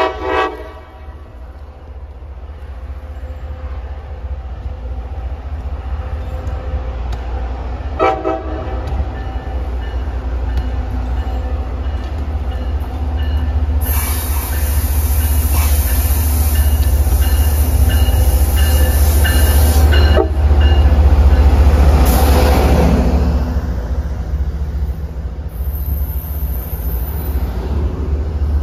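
A train horn sounds briefly at the start, and another short horn blast comes about 8 seconds in. An MBTA diesel commuter train then comes around the curve, growing steadily louder; its locomotive passes with a falling pitch a little after 20 seconds, and its coaches roll by with a high wheel squeal on the curve.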